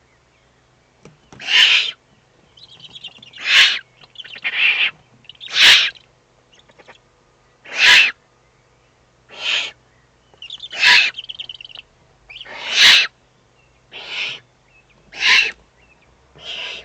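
Eurasian eagle-owl chicks giving harsh, hissing begging calls while being fed, about eleven calls a second or two apart. A brief, higher chittering comes twice between them.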